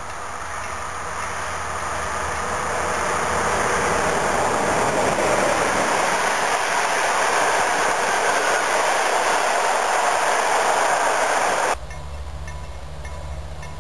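Passenger train passing close by at speed, the rush of its wheels on the rails building over the first few seconds and then staying loud. The sound cuts off abruptly near the end.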